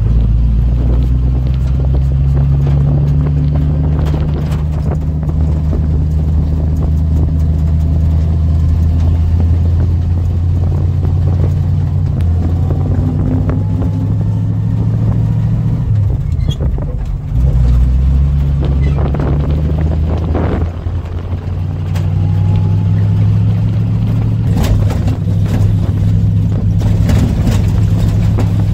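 1952 Ford F3 pickup's flathead V8 running steadily under way. The engine note dips briefly about seventeen seconds in and again about twenty-one seconds in, as with gear changes or lifting off the throttle.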